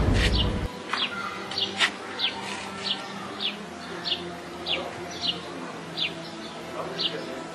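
A bird repeating a short, high chirp that drops in pitch, over and over at a steady pace of a little under two a second. Faint steady low tones sit underneath.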